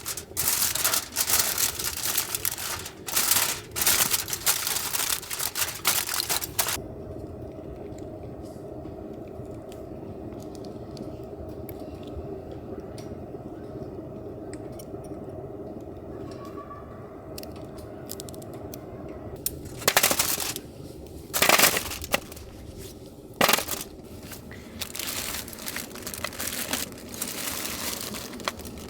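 Aluminium foil being crumpled and folded by hand into a small bowl: dense crinkling for the first six seconds or so, then a quiet stretch with a steady low hum, then a few sharp, loud crinkles about twenty seconds in and lighter handling near the end.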